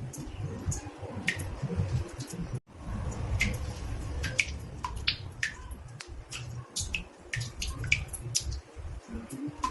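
Water drops falling into a bathtub: irregular plinks, several a second, each with a short pitched ring, over a low rumble, with a momentary break about two and a half seconds in.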